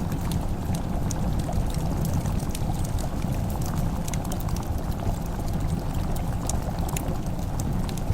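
Wood fire crackling in a fireplace: a steady low rumble with many small, scattered pops and crackles.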